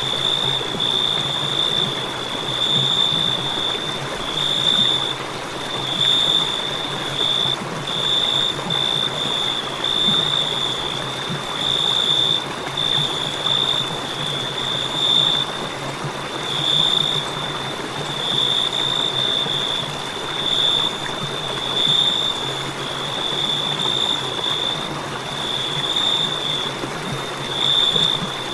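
Crickets trilling continuously in a high, steady pitch. The trill swells and eases about every two seconds over a steady background hiss.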